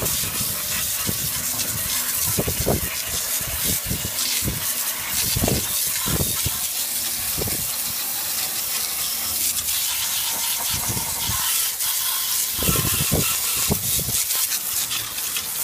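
A jet of water spraying steadily with a loud hiss, hitting the Honda HR194 push mower as it is washed down, with scattered low thumps.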